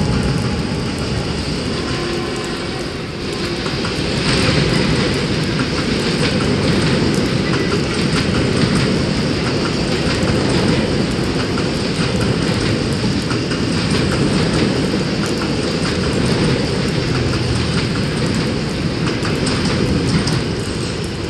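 A train running on the rails: steady wheel-on-track noise with a continuous fine rattle.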